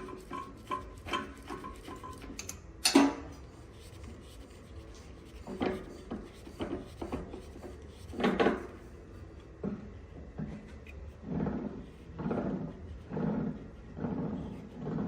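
Hand work on wood: a few sharp wooden knocks, then a run of scraping strokes on wood at about one a second.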